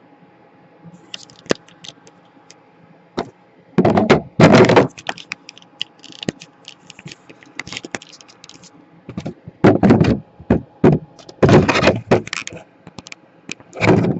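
Handling noise on a repair bench: objects being picked up and set down, clicking and clattering, with loud clusters of knocks and thuds about four, ten, twelve and fourteen seconds in.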